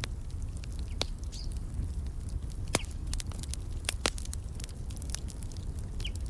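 Wood fire crackling in a fireplace: irregular sharp pops and snaps, a few of them louder, over a steady low rumble of the flames. A few faint short bird chirps come in, one near the end.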